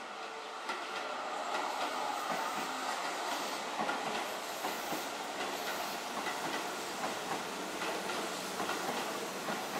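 Keihan 1000 series electric train passing close by, its wheels clicking over the rail joints in a steady run of clacks under the running noise.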